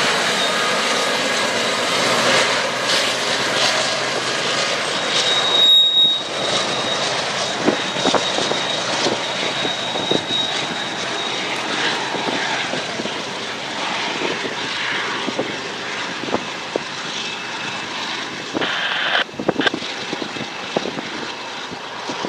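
Freight train rolling past: a steady rumble with many sharp clicks and knocks from the wheels on the rails, and a thin high squeal about five seconds in.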